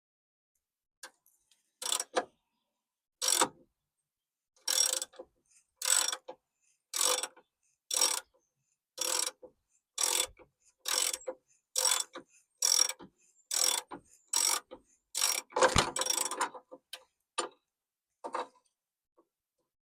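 Hand ratchet wrench clicking in repeated short strokes, about one a second, as a nut is backed off a rusted bumper bolt, with a longer, louder metallic clatter near the end of the run.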